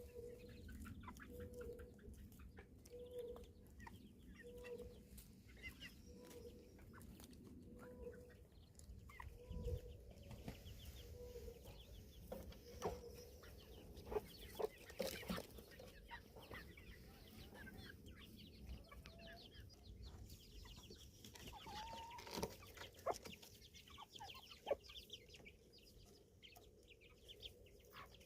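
Chickens clucking faintly: a short low cluck repeated steadily about once every 0.8 s for roughly the first twelve seconds, with scattered higher chirps and a few sharper calls later.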